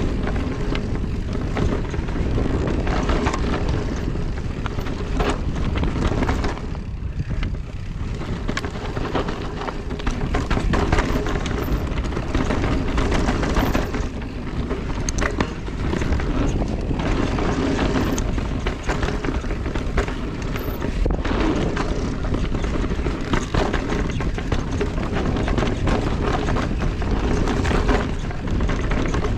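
Riding noise from an e-mountain bike on a rough trail: wind buffeting the microphone and tyres rolling over dirt and rock, with frequent short knocks and rattles from the bike.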